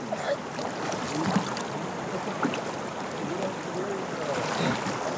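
Water splashing and sloshing in a shallow stream as an aluminium boat is pushed and dragged through it, with many small irregular splashes.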